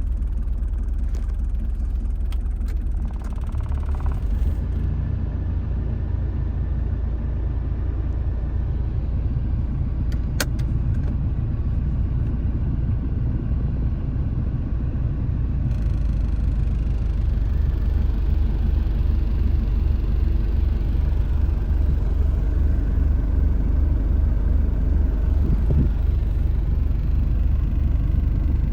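Mitsubishi Delica engine idling steadily just after a cold start, with a deep, even running note. There is a single sharp click about ten seconds in, and the note grows slightly louder after about sixteen seconds.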